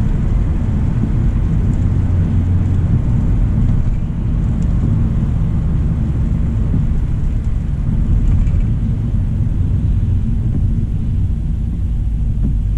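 Steady low road and tyre rumble of a 2025 Hyundai Elantra SEL driving.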